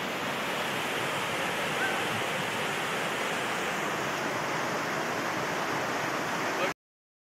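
Fast-flowing floodwater rushing in a steady, even wash of noise, which cuts off abruptly near the end.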